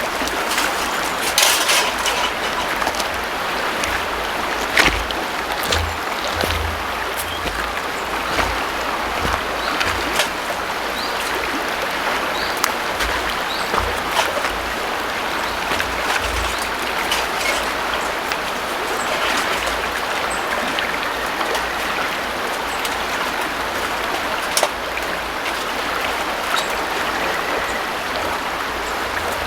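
River water flowing steadily, with scattered small clicks and occasional low rumbles.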